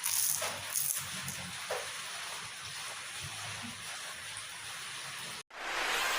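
Steady hissing noise, like rain or running water, with a few faint knocks. It cuts out for an instant near the end and comes back louder.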